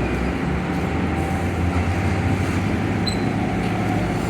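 A heavy truck's diesel engine running with a steady low drone. A brief faint high chirp comes about three seconds in.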